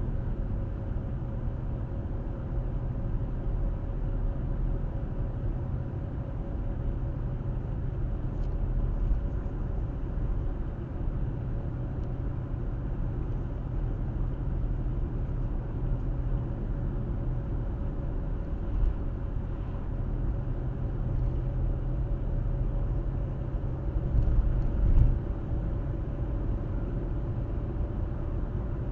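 Car driving along a road: a steady low rumble of tyres and engine with a faint steady whine, and a brief louder bump near the end.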